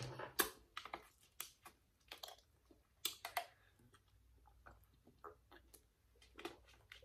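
Faint, close-miked eating sounds: irregular small clicks and wet mouth smacks of chewing.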